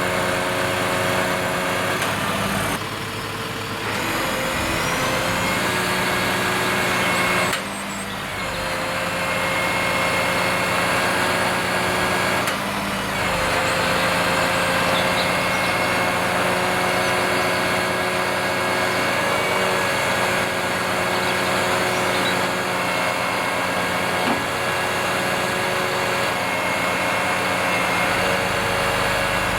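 Delivery truck with a HIAB truck crane, its engine running steadily with a steady whine over it, the sound dipping and shifting briefly a few times in the first half.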